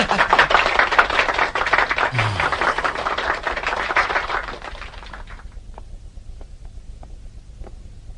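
A crowd applauding: dense clapping that thins out about five seconds in to a few scattered claps.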